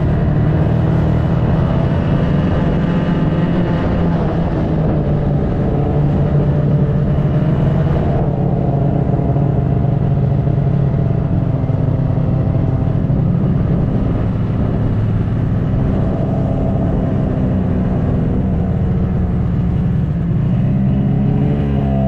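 Snowmobile engine running at a fairly steady pitch while under way. The higher hiss above it drops off sharply about eight seconds in.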